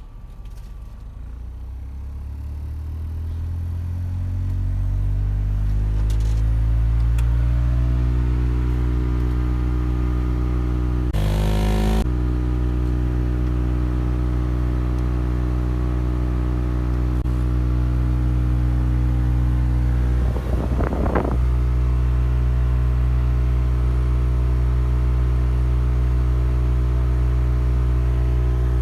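A car making a loud, low droning hum with the air conditioning on, rising in pitch over the first several seconds and then holding steady: the abnormal noise and vibration that comes with running the air conditioner. Two brief bursts of noise break in, one in the middle and one about two-thirds of the way through.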